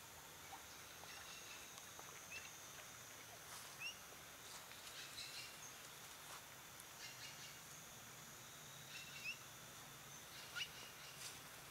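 Quiet outdoor ambience with faint, short rising bird chirps scattered through, over a steady faint high-pitched tone and a few soft ticks.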